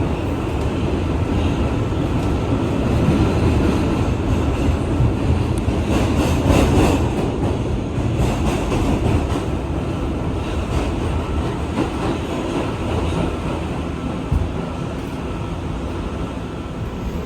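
NYC Subway R211A car running at speed between stations, heard from inside the car: a steady rumble of steel wheels on rail with rattling clatter, heaviest about six seconds in, and one sharp click near the end.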